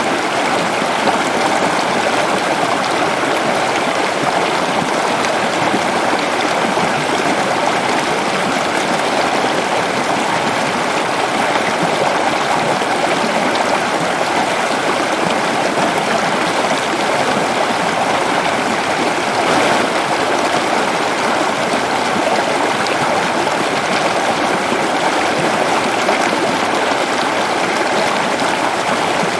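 Waterfall pouring steadily, a constant rushing of falling water with no breaks or changes.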